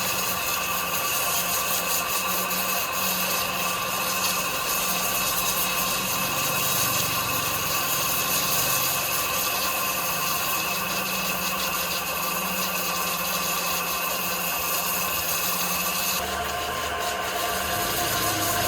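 Sawmill saw running and cutting through timber, a steady mechanical noise with a held high whine; the tone of the machinery changes about 16 seconds in.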